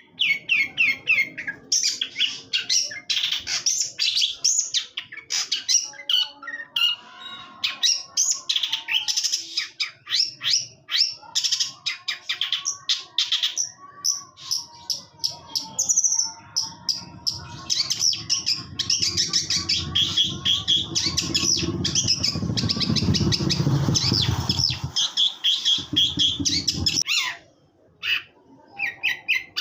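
Long-tailed shrike (cendet) singing a fast, continuous chattering song of rapid high chirps and trills, a masteran recording for training songbirds. A low rumble of background noise runs under the song for several seconds in the second half, and the song breaks off briefly near the end.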